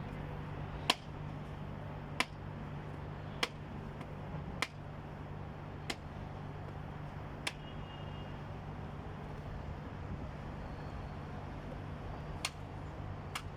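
Steady low hum of an idling car, with sharp clicks about every second and a quarter through the first half and twice more near the end.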